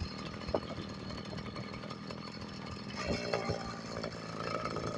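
Motorized bicycle's small engine running steadily while riding.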